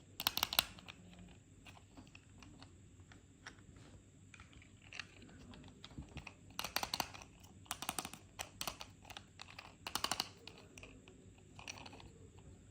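Toy cars and their plastic packaging being handled. Clusters of sharp clicks and crinkles come in several short bursts, the loudest just after the start.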